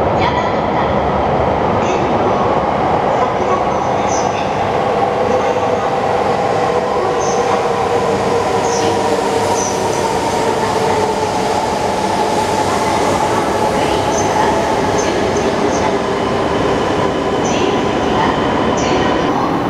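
Shinkansen train pulling into an underground station platform. A steady rush of wheels and air carries a motor whine that slowly sinks in pitch as the train brakes, with scattered light high clicks and a little wheel squeal.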